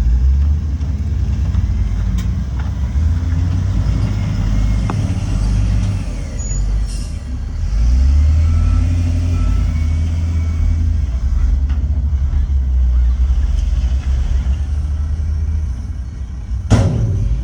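Heavy diesel earthmoving machinery running under load, the deep engine note swelling and easing, with one short sharp burst of noise near the end.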